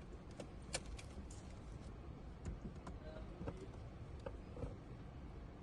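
Inside a car: a low steady rumble with scattered small clicks and taps, the sharpest about a second in.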